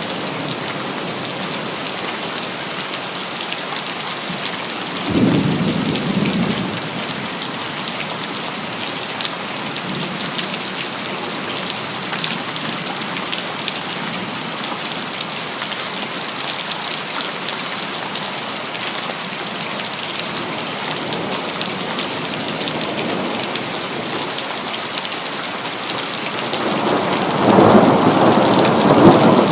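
Steady rain with thunder: a sudden clap of thunder about five seconds in that dies away over a couple of seconds, and a louder rumble of thunder building near the end.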